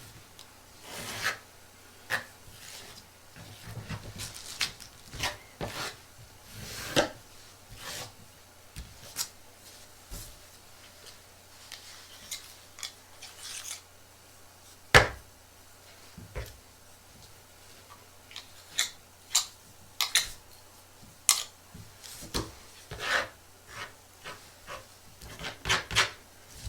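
Short scratchy rubbing and scraping strokes at irregular intervals, with scattered sharp clicks; the loudest click comes about halfway through.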